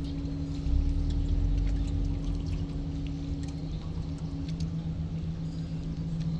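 Tugboat diesel engines running steadily with a low drone, with water washing and splashing around the hulls. About four seconds in, the higher engine note fades and a lower one grows stronger.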